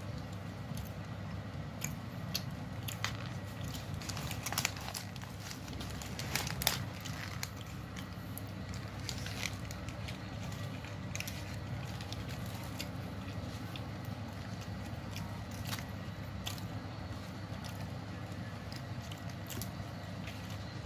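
Someone biting into and chewing a kebab burger close to the microphone: scattered crackles and clicks, thickest in the first seven seconds, over a steady low hum.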